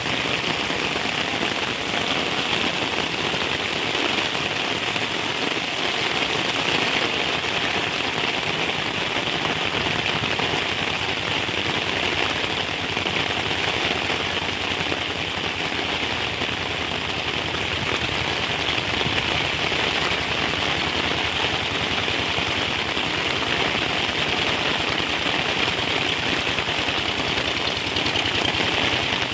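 Heavy rain falling in a dense, steady patter of many drops.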